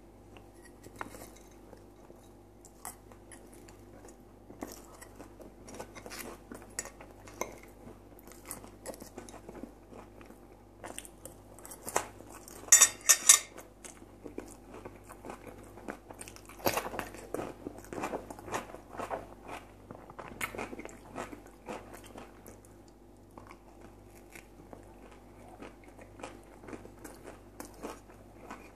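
Close-miked chewing and crunching of crispy fried potatoes, with the fork clicking against the plate. There is a cluster of louder clicks about thirteen seconds in.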